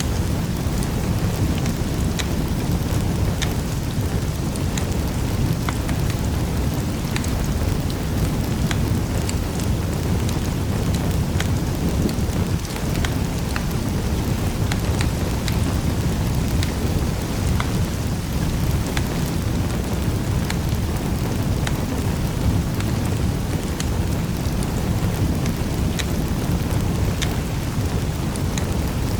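Fireplace fire burning with a steady low rumble and irregular sharp crackles and pops scattered through it.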